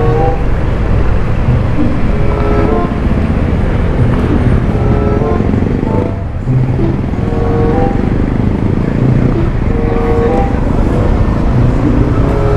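Steady low rumble of wind on the microphone and a Yamaha Aerox 155 scooter's engine while riding, easing briefly about halfway through.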